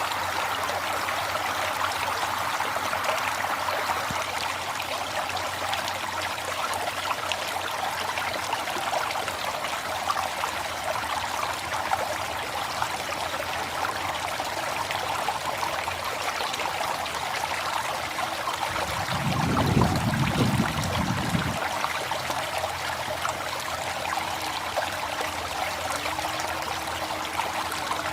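River water flowing: a steady, even rush. About two-thirds of the way through, a brief low rumble lasting a few seconds rises over it.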